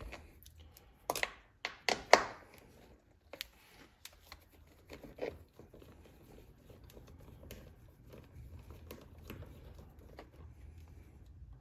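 Light clicks and taps of a hand tool with a 10mm socket on the two nuts at the back of a car's center console as they are loosened and taken off. A few sharper clicks come in the first few seconds, then fainter scattered ticks.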